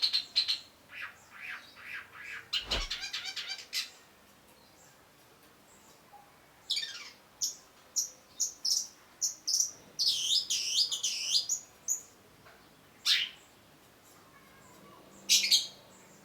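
Long-tailed shrike singing in bursts: a run of short chirps ending in a fast rattling trill, then a pause of a couple of seconds. After the pause come a string of sharp high notes and quick up-and-down sweeping whistles, with two single loud calls near the end. A low thump sounds about three seconds in.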